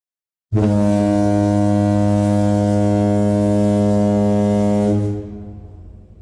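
A cruise ship's horn sounds one long, steady, low blast of about four and a half seconds, then cuts off and dies away.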